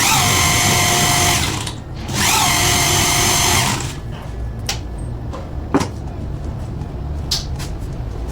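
Small electric power tool whining in two short runs of about a second and a half each, its pitch rising as it spins up, then stopping. A few sharp clicks follow over a steady low hum.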